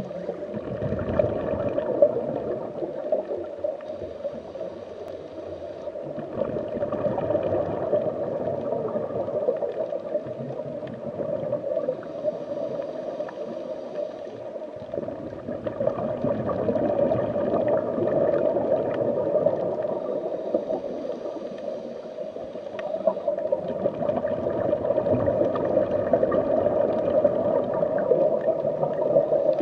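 Underwater ambience: continuous gurgling, bubbling water that swells and fades every several seconds.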